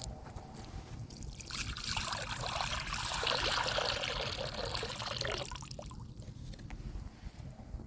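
Water being poured, a steady trickle lasting about four seconds before it tails off.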